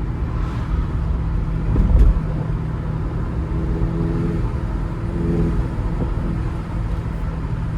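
Car engine and road noise heard from inside the cabin: a steady low rumble with a single heavy thump about two seconds in.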